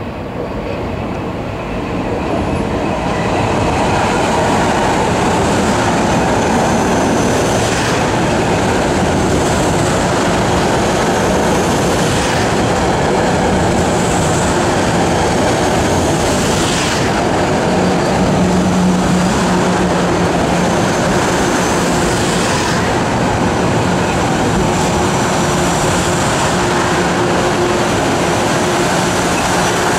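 Metro-North M3A electric multiple-unit train running past close by on elevated track: a steady rumble of wheels and running gear that grows louder over the first few seconds and then holds, with a few brief sharper clatters and a low hum for a few seconds past the middle.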